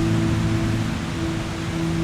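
Slow ambient meditation music of long held low drone tones, one fading out about halfway and a new one swelling in near the end, over a steady hiss of ocean surf.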